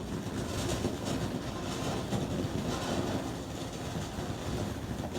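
Fireworks going off: a continuous noisy rush with short bursts of hiss about once a second.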